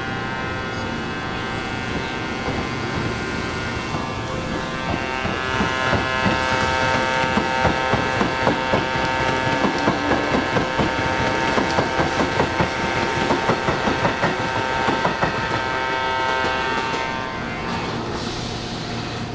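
Sanyo Electric Railway train running through the station, its wheels clicking over rail joints about twice a second for some ten seconds, over a steady hum made of many held tones.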